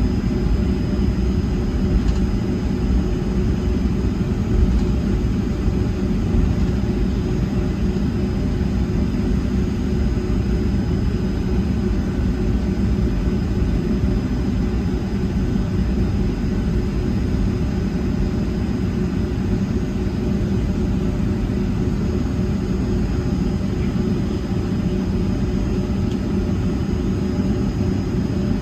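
Boeing 757-200's Pratt & Whitney jet engines heard from inside the cabin: a steady low rumble with a constant hum, neither rising nor falling.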